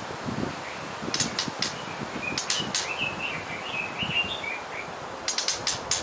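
Songbird chirping in short wavering notes, with a few quick clusters of sharp clicks, over a steady background hiss.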